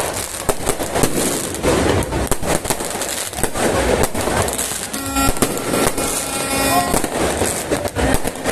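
Fireworks going off in rapid succession: a dense, unbroken run of bangs and crackles. About five seconds in, a steady horn-like tone sounds for roughly two seconds over the bangs.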